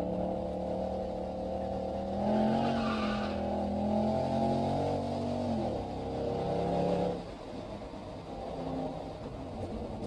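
Mercedes SL63 AMG V8 heard from inside the cabin under acceleration. The engine note climbs about two seconds in and holds high. Just before six seconds the pitch drops abruptly, and about a second later the engine goes quieter as the car eases off.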